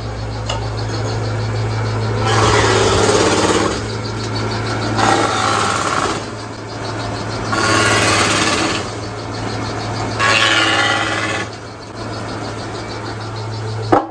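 Sawmill machinery running with a steady low hum, with four louder bursts of noise, each about a second long and roughly two and a half seconds apart, and a sharp click near the end.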